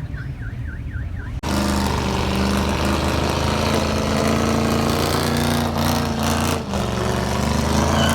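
A car alarm warbles in a rapid repeating chirp. About a second and a half in, it cuts off abruptly to a loud car engine running steadily at raised revs, which dips briefly near the end.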